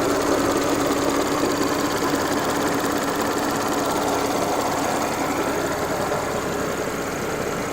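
Audi S4 B8's supercharged 3.0-litre V6 idling warm after hard driving, a steady hum with a busy mechanical clatter, easing slightly about five seconds in. The owner takes it for normal, the earlier rattle gone after an oil change to Pentosin 5W-40, though some noise comes from the front left.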